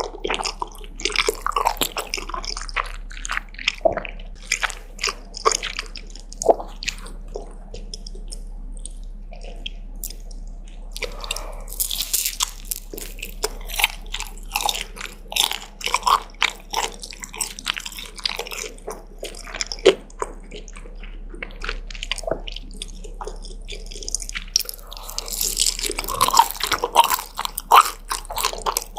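Close-miked eating of spicy chicken noodles and fried dumplings: a steady run of wet chewing and biting clicks, thinner for a few seconds about a third of the way in and busiest near the end.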